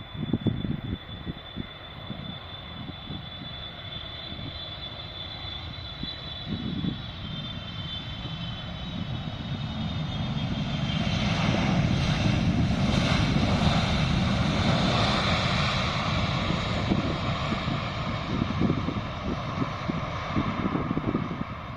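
A landing jet airliner passing close by on approach. Its high engine whine comes first, then the engine noise swells to a peak about halfway through and fades away slowly. Gusts of wind buffet the microphone.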